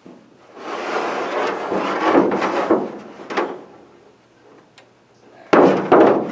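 Loud clattering and scraping of handled objects for about three seconds, then a louder sudden crash of clatter near the end, the sound of a small mishap.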